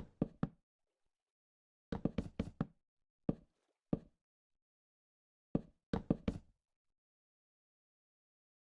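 Sharp knocks on a hard surface in uneven groups: a quick run of three or four, a run of about five, two single knocks, then another run of four.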